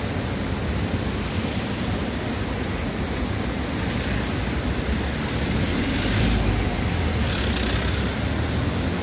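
River in flood rushing past: a steady, loud rushing noise with a heavy low rumble underneath, swelling slightly about six seconds in.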